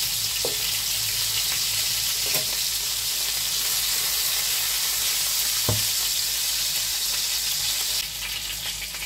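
Minced-beef patties sizzling in hot oil in a frying pan, with a wooden spatula knocking and scraping against the pan a few times as the patties are lifted out. One knock a little past halfway is louder than the rest, and the sizzling turns quieter near the end.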